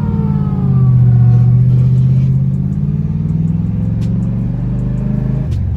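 Ford 5.4-litre three-valve V8 running under way: the revs fall away at the start, hold a steady note, then climb a little and drop off sharply near the end.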